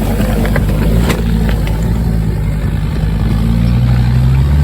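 Off-road 4x4 engine running steadily at low revs, the note rising slightly near the end as it pulls over the rocks. A few short knocks about a second in.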